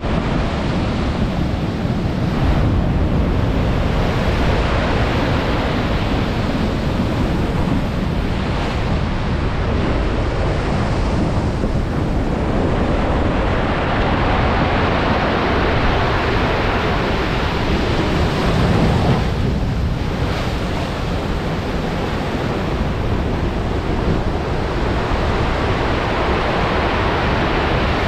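Stormy sea surf: waves breaking and washing in continuous loud swells, with strong wind buffeting the microphone.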